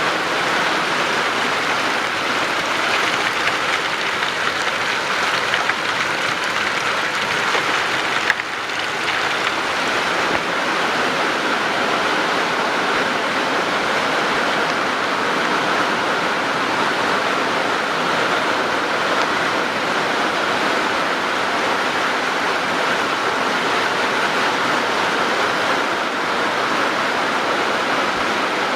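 Steady rushing water, an even unbroken wash of noise with no swells, and a brief dip in level about eight seconds in.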